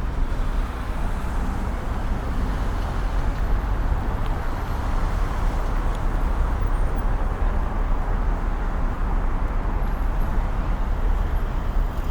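Steady city street traffic noise of cars and engines, with a constant low rumble and no distinct events.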